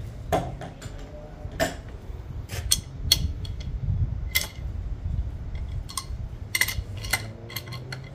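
Irregular metallic clinks and taps of steel hand tools being handled against the engine's cylinder head: a wrench and socket being picked up and fitted to the camshaft gear bolt. About fifteen sharp clinks, scattered unevenly, over a low steady hum.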